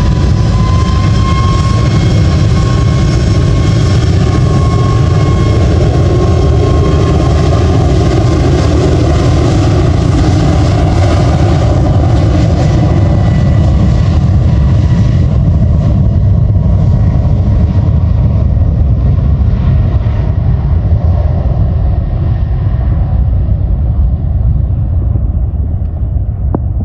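Jet airliner's engines at takeoff power: a whine that rises in pitch at the start and then holds steady over a loud, heavy low rumble. From about halfway through, the high whine fades gradually while the rumble remains, as the aircraft moves away.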